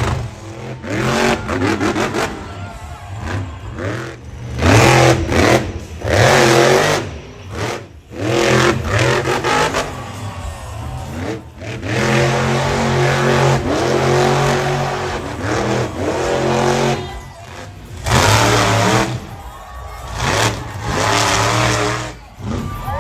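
Monster truck engine revving hard in repeated bursts, its pitch climbing and falling with each throttle stab, with several loud surges.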